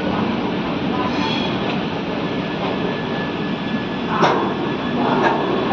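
Train running on the rails, a steady loud rumble and rattle, with a short sharp clank about four seconds in and a smaller one a second later.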